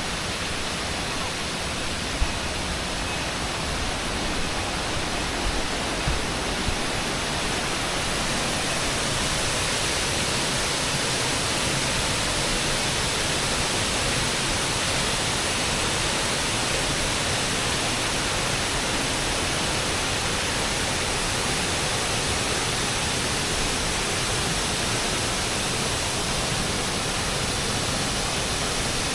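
Steady rushing roar of a waterfall, water pouring down a rock cliff, growing a little louder over the first several seconds and then holding even. A few light clicks sound in the first seven seconds.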